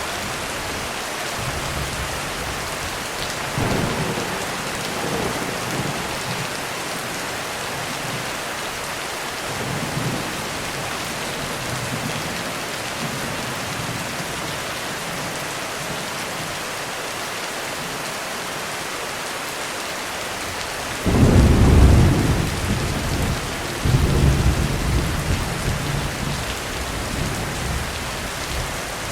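Heavy rain falling steadily on a roof, with a few low rumbles of thunder in the first half. About three-quarters of the way through comes a sudden loud thunderclap, with a second surge a few seconds later, rolling away toward the end.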